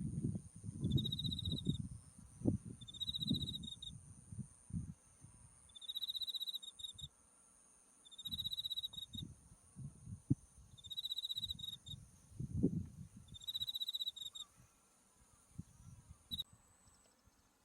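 Autumn insects singing: a cricket repeats short pulsed chirps every two to three seconds over a steady, very high-pitched trill that stops near the end. Wind gusts rumble on the microphone.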